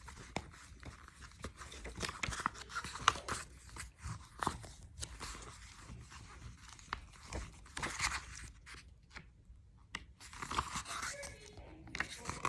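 Paper rustling and crinkling with scattered sharp clicks as the pages of a book are turned and handled, with a short lull near the middle.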